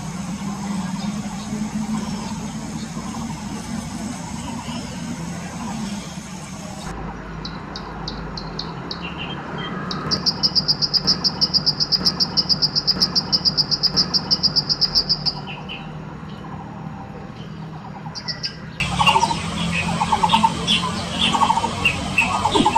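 Prinia (ciblek) singing: a fast, even trill of high notes lasting about five seconds in the middle, with shorter chirps before and after it. A steady low hum runs underneath, and the background changes abruptly twice where separate recordings are joined.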